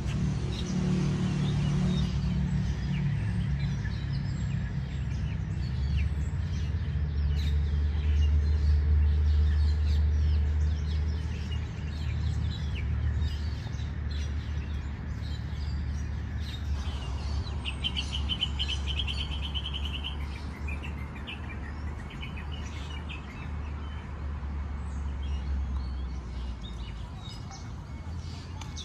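Birds chirping and calling, short high chirps scattered throughout, with a rapid even trill for about two seconds a little past halfway. A steady low rumble runs underneath and is the loudest part.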